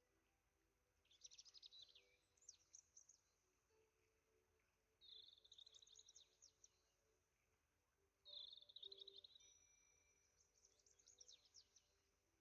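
Faint songbird song: three quick, twittering phrases of high notes, a few seconds apart.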